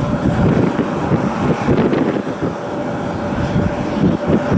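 Jet airliner engines running, a steady rumble with a faint constant high whine.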